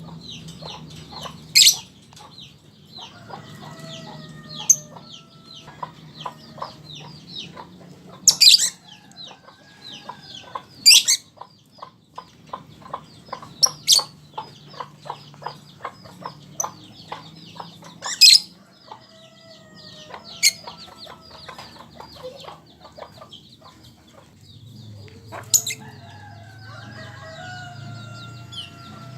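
Lovebird chattering in fast runs of short high chirps, cut through every few seconds by a loud, sharp shriek. Lower clucking calls sound underneath at times.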